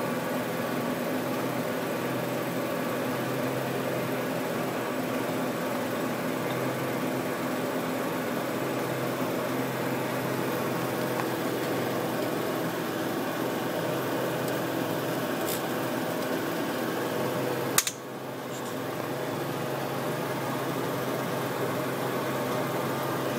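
Car engine idling steadily, with an exhaust leak at the headers. A single sharp click comes about eighteen seconds in, after which the sound briefly drops and recovers.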